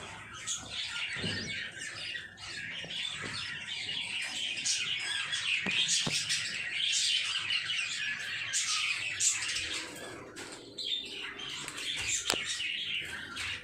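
Several pet lovebirds chattering continuously, with shrill chirps and squawks and a few short sharp clicks.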